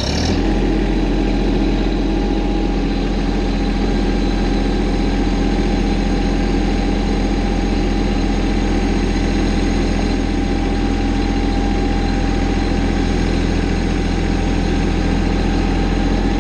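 A tractor's engine catches and settles into a steady, even idle.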